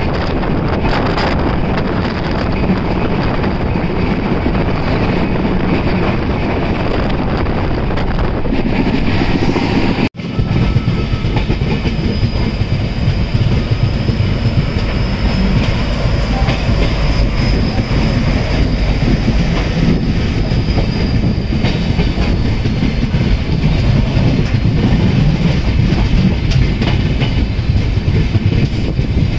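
Express train running along the track, its wheels clattering steadily over the rails. The sound cuts out briefly about ten seconds in, then resumes with a faint high whine for a while in the middle.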